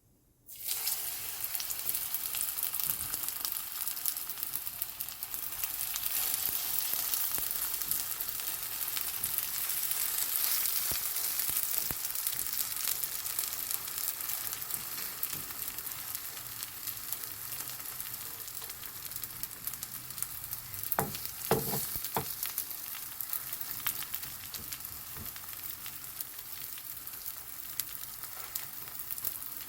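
Korean vegetable pancake (buchimgae) sizzling in hot oil in a frying pan, starting abruptly about half a second in and continuing steadily. A few short knocks come about two-thirds of the way through.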